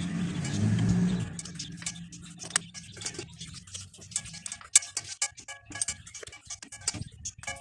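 A small electric appliance motor hums low and steady, then cuts off about a second in. Scattered light clicks and clinks of handling follow.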